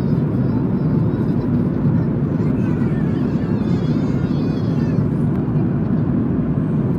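Steady cabin noise of a Boeing 737 MAX 8 in cruise: a loud, even, low rumble. Faint voices come through it a few seconds in.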